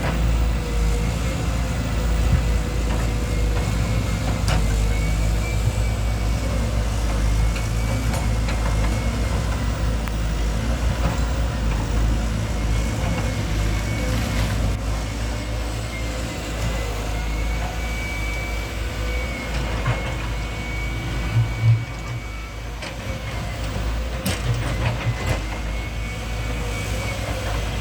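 Heavy construction machinery running steadily: a deep engine rumble with a thin whine that wavers slightly in pitch, and an occasional knock or clank.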